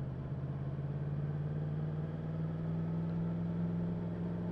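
Yamaha MT-10 SP's crossplane inline-four engine running at low, steady revs, with little wind noise.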